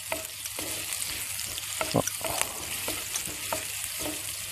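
Chopped ginger, garlic and green chillies sizzling in hot coconut oil in a pan while being stirred to sauté. The oil makes a steady hiss, broken by scattered light clicks and scrapes of the stirring utensil against the pan.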